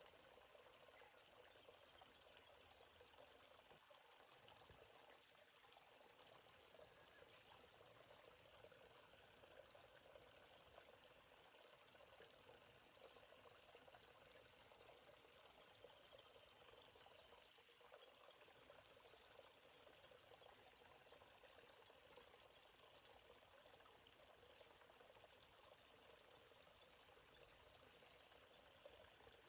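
A steady, high-pitched chorus of insects over the soft, even rush of a stream.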